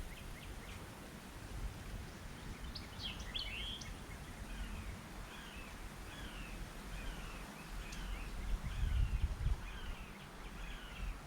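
Birds calling: a brief flurry of chirps, then one bird repeating a short, down-slurred call over and over. Beneath them runs a low rumble of noise on the microphone, loudest near the end.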